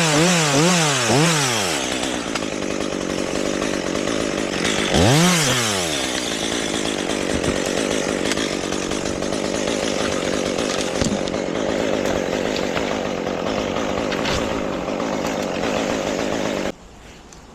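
Chainsaw running and cutting wood: the engine pitch wavers rapidly up and down at first, revs up and back once about five seconds in, then holds a steady sawing note until it cuts off suddenly near the end.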